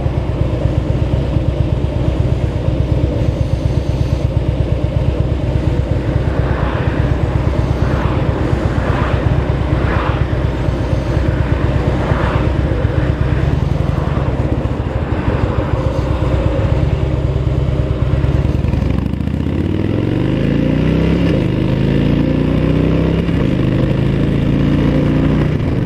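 Motorcycle engine running steadily at low speed, then pulling away about two-thirds of the way in: the pitch climbs, drops back and climbs again several times as it accelerates through the gears.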